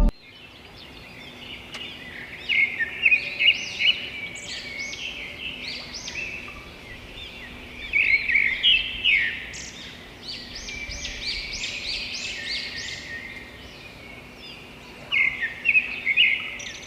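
Birds chirping and singing in quick, high-pitched phrases, in several bursts with short lulls between.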